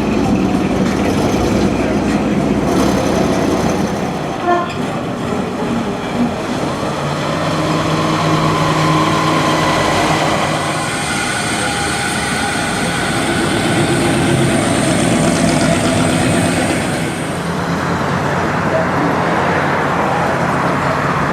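Cars driving past with engines running over steady traffic noise. A steady pitched tone is held for several seconds midway.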